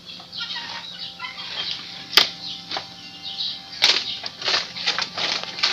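Leafy fodder, likely cut banana leaves, rustling and tearing in short irregular bursts as it is handled or eaten, with two sharp clicks about a second and a half apart near the middle.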